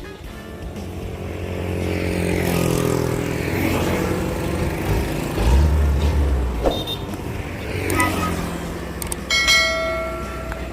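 Loaded sugarcane truck's engine revving and labouring, with the pitch climbing about two seconds in and a heavy low rumble midway, plus a couple of knocks. A steady horn-like tone sounds near the end.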